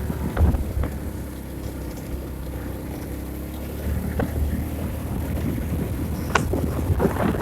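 Vehicle travelling along a road: a steady low rumble with wind buffeting the microphone, and a few knocks, one about half a second in and another near the end.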